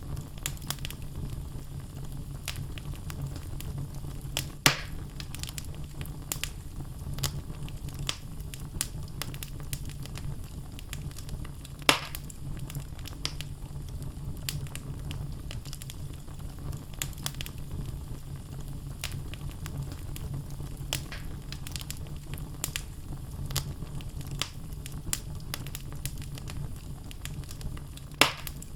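Wood logs burning in an open fireplace, crackling with many small snaps over a steady low rumble of the flames. Three louder pops stand out: about five seconds in, about twelve seconds in, and near the end.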